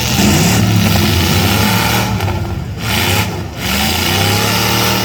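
Engines of 8-cylinder demolition derby cars revving up and down, loud and rough, with the pitch rising and falling repeatedly.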